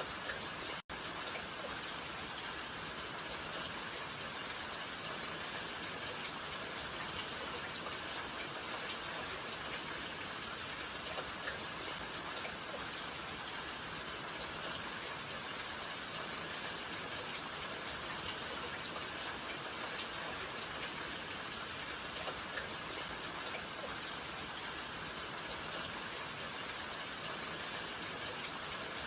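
Steady rain falling, an even hiss with a few distinct drop taps here and there. The sound cuts out for an instant about a second in.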